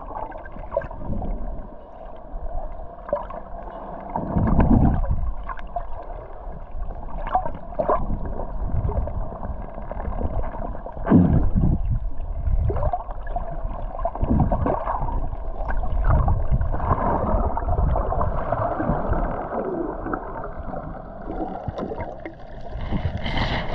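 Muffled gurgling water with a low rumble and irregular dull thumps and knocks.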